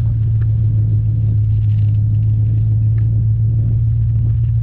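Pickup truck driving, a steady loud low rumble with a few faint clicks.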